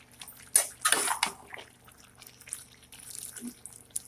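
Chicken frying in a pan with onion and spice masala, crackling with scattered pops, and a few sharp knocks about half a second and a second in.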